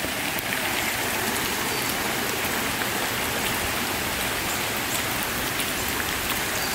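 Steady pouring rain: an even hiss of drops with no let-up.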